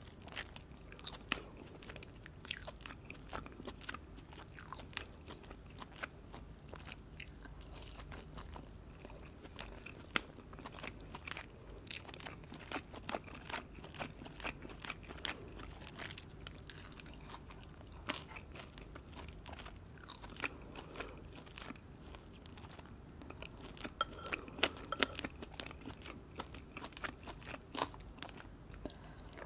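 Close-miked chewing of gravy-dipped chicken chop, with many small sharp crunches and wet mouth clicks. The clicks are busiest about four-fifths of the way through.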